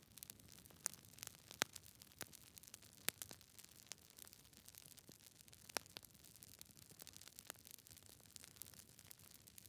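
Wood fire crackling in a fireplace: irregular sharp pops and snaps from the burning logs over a faint hiss, with a few louder pops standing out.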